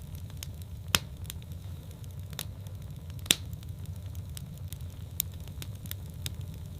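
Wood fire in a fireplace crackling: a steady low rumble of the flames with sharp pops and ticks, the loudest about a second in and just after three seconds.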